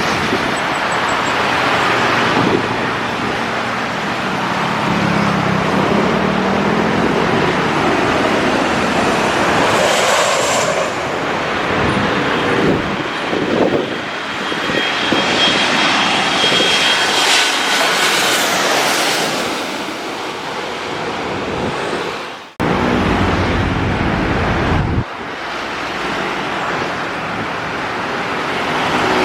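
Road traffic with a jet airliner passing low overhead on its landing approach; a high engine whine is strongest around the middle. The sound cuts off abruptly twice near the end.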